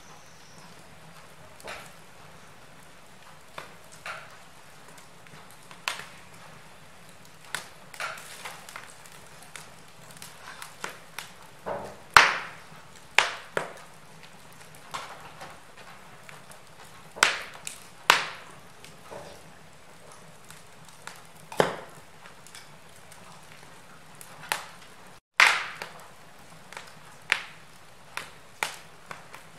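Wood fire in a fireplace crackling: irregular sharp pops and snaps of varying strength over a faint low hiss, sparse at first and more frequent from about ten seconds in. The sound cuts out for a moment about three-quarters of the way through.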